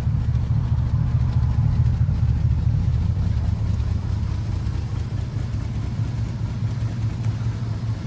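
1950 Ford Deluxe Fordor sedan's engine idling steadily, a little quieter from about halfway.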